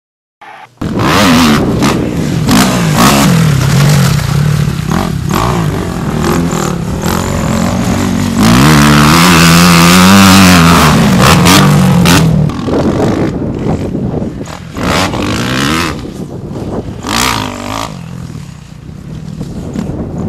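Kawasaki KX250F dirt bike's single-cylinder four-stroke engine being ridden hard, its revs rising and falling through the gears. It comes in about a second in, is loudest and held high about halfway through, then eases off to lower, choppier revving.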